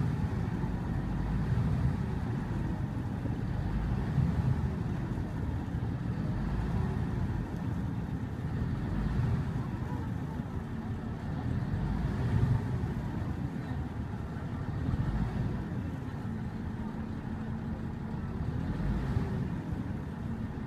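A river ferry's engine running steadily while under way, a low rumble whose pitch rises and falls slowly every couple of seconds.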